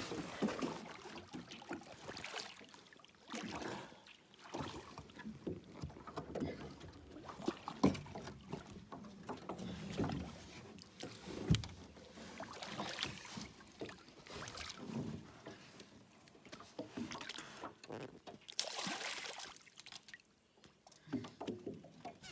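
A small boat being moved through water by hand: irregular water splashes and occasional knocks on the hull, with no engine running.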